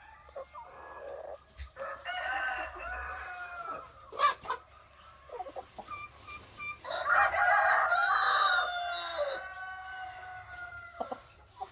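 Roosters crowing: one crow about two seconds in and a louder, longer one about seven seconds in that trails off, with a sharp knock between them.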